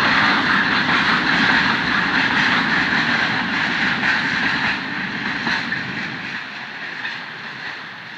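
Freight train of loaded open coal wagons hauled by diesel locomotives rolling past, a steady rumbling roar. About halfway through, the roar begins to fade as the train moves away.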